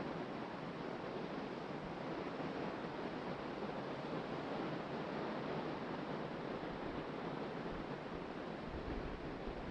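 Steady wash of ocean surf breaking on a beach, mixed with wind and some wind buffeting on the microphone.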